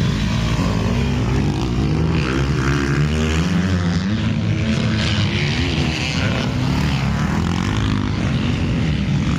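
Motocross bike engines running on the circuit: more than one engine, the pitch rising and falling repeatedly as the riders open and close the throttle and shift.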